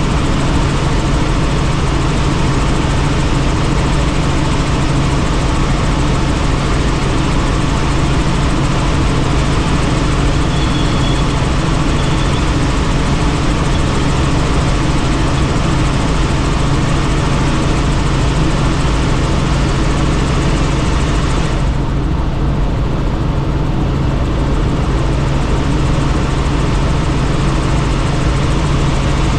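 Helicopter in flight, heard from inside the cabin: a steady drone of turbine and rotor with a strong low hum and rushing air noise. The high rushing air noise dulls about three-quarters of the way through.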